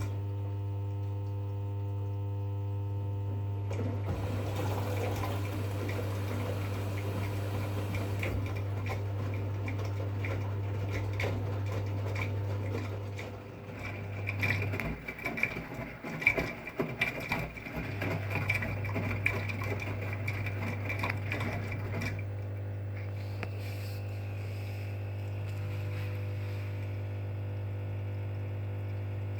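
2011 V-Zug Unimatic SL washing machine running a 40 °C wash programme: a steady low hum with water sloshing and splashing inside. About halfway the hum drops out for a few seconds amid irregular splashes and knocks, then comes back steady.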